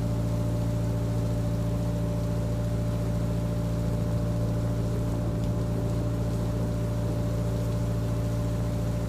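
Narrowboat's engine running steadily under way, a constant low drone that holds its pitch throughout.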